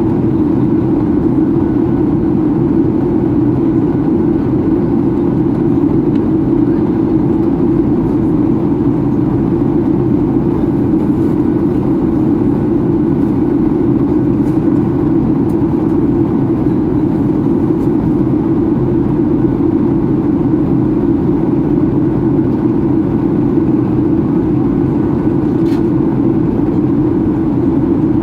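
Steady cabin noise inside a Boeing 737-800 during descent: even airflow rush and the hum of its CFM56-7B engines, unchanging throughout.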